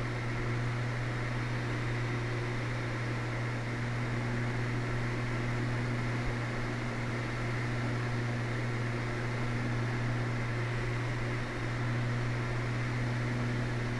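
Steady drone of a Twin Cessna 320's two piston engines and propellers inside the cabin, even and unbroken.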